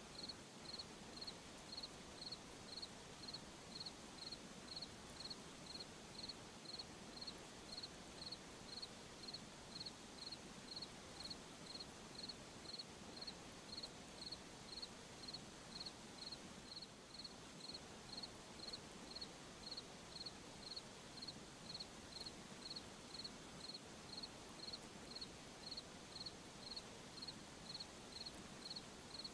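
A cricket chirping steadily at night, about two short high chirps a second in an even rhythm, faint over a soft background hiss.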